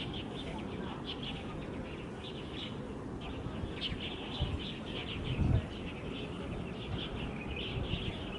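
Small birds chirping continuously in quick, short notes over a steady low rumble, with a brief low thump about five seconds in.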